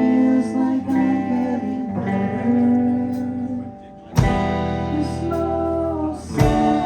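A four-piece band playing live, with guitar, bass, drums and keyboards. The music holds sustained chords, then comes back after a short drop with two sharp full-band hits, about four seconds in and again about six and a half seconds in.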